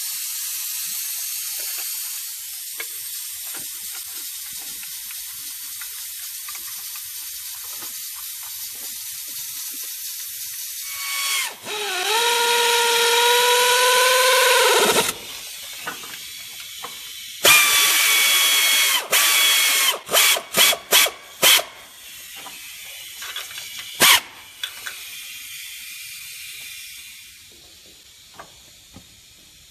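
Air tool driving in the water pump bolts: a steady hiss, then a whining run of a few seconds, a second shorter run, and a quick string of short bursts as the bolts are snugged down.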